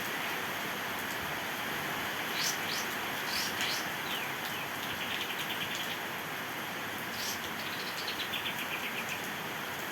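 Kapas tembak, a Sumatran bulbul, calling in short sharp chirps and then rapid trills, the second trill falling in pitch, over a steady hiss of rain.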